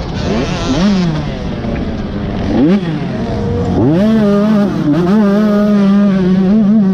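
Motocross dirt bike engine being ridden. The revs climb and drop sharply several times in the first few seconds as the throttle opens and shuts, then hold high and fairly steady with small wavers.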